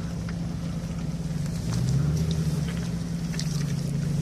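Vehicle engine running steadily at low revs, picking up slightly about two seconds in, with scattered light clicks over it.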